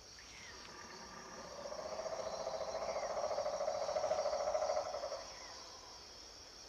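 Tropical forest ambience: a steady high-pitched chorus of insects, with a lower, rapidly pulsing trill that swells from about a second and a half in and stops near five seconds, and a few faint short chirps.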